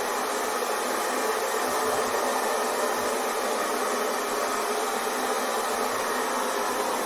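Hair dryer running steadily: an even rush of blown air with a faint, steady motor whine and no deep rumble.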